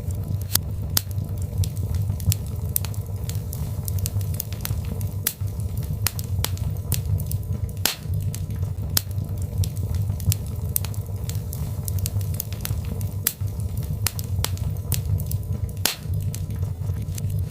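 Birchwood fire burning in a fireplace, crackling and popping with many irregular sharp snaps over a steady low rumble of the flames.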